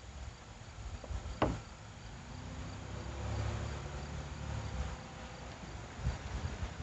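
Insects chirping in a steady, even rhythm, with a single sharp click about a second and a half in.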